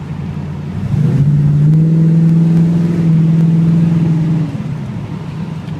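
1968 Chevrolet Chevelle SS 396's big-block V8 accelerating hard, heard from inside the car. About a second in, the engine note rises and gets louder. It holds for about three seconds, then drops back to a steady cruise as the throttle is lifted.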